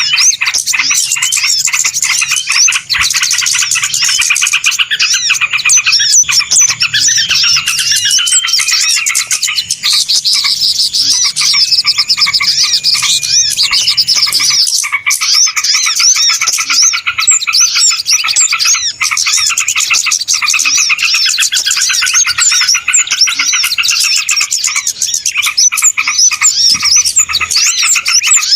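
Loud, dense chorus of many small birds chirping and twittering rapidly all at once, with a few gliding whistled notes mixed in. This is a busy bird-lure (pikat) recording of small songbirds, meant to draw wild birds in.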